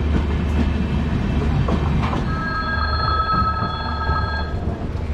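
Janshatabdi Express passenger coach running slowly, heard from its open door: a steady low rumble of wheels on track. For about two seconds in the middle, a steady high-pitched wheel squeal rises over it.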